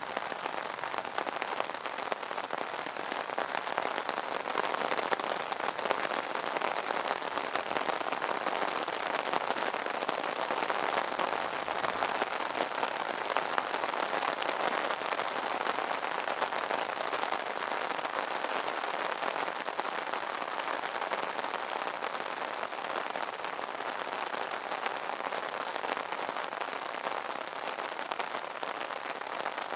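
Steady rain falling on an umbrella canopy: a dense, even patter of drops.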